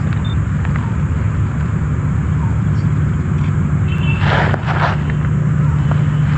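Steady low rumble of road traffic, with a vehicle's engine hum growing steadier about halfway through. A brief rustle or crunch close by near the end.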